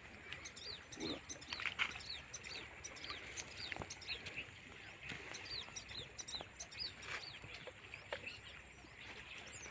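Small birds chirping over and over in short, quick falling notes, with a few faint clicks in between.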